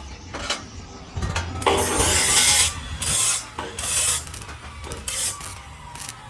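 Repeated rasping, scraping strokes, about four of them. The longest and loudest comes about two seconds in, and the strokes grow shorter and fainter after it.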